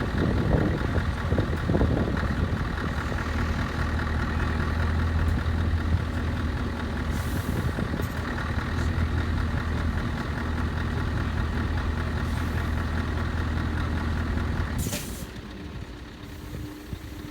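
Heavy truck's diesel engine idling steadily with a low, even note. Near the end a short sharp hiss of released air is heard, and after it the engine sound drops away.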